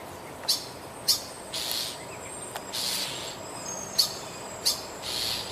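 A bird screaming: repeated high alarm calls, short sharp notes mixed with three longer, noisier calls, about seven in all. This is distress calling over a baby bird a cat has just killed.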